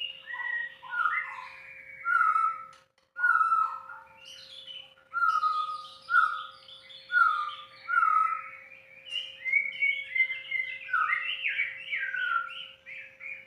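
White-rumped shama (murai batu) singing: varied whistled phrases, with a falling note repeated about once a second, then faster, busier phrases near the end. A faint steady hum runs underneath.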